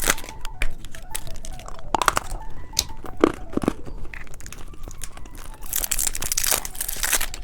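Plastic candy wrappers and packaging being handled and torn open, with sharp crinkles and clicks throughout. A longer stretch of dense rustling crinkle comes near the end.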